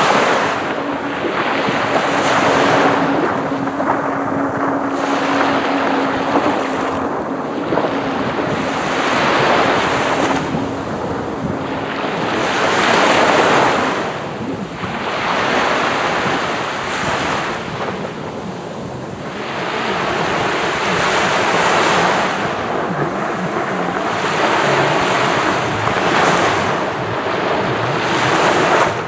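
Sea waves breaking and washing up on a sandy beach, the surf swelling and falling back every few seconds. A steady low hum sounds under the surf and fades out about twelve seconds in.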